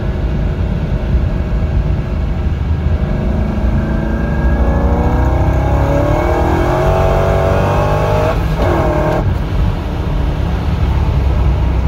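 Supercharged 5.7-litre LS6 V8 of a C5 Corvette Z06, fitted with an A&A supercharger kit and an aftermarket cam, heard from inside the cabin as the car accelerates in third gear. Its note climbs steadily in pitch for several seconds, then the rising note breaks off about nine seconds in.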